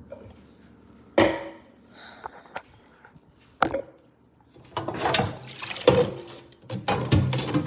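Two sharp knocks, then, from a little before halfway on, several seconds of busy clattering and rustling from things being handled.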